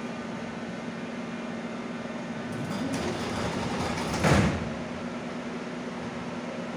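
Metro car sliding doors of an 81-717/714 'Nomernoy' train closing after the doors-closing announcement. A rising slide ends in a loud bang as they shut, about four seconds in, over the car's steady hum.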